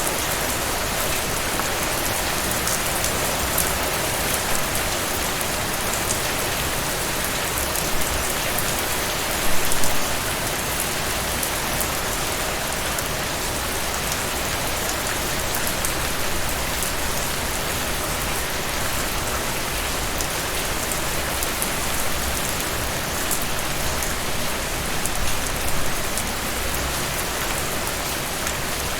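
Steady rain falling on a surface. The level stays even, with a few louder patches, the largest about ten seconds in.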